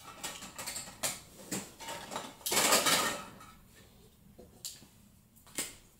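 Irregular metallic clinks and handling noises of tools and parts, with one louder rasping burst lasting under a second about halfway through.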